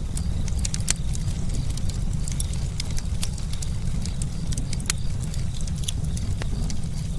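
Campfire burning: a steady low rumble of flames with many irregular sharp crackles and pops of burning wood.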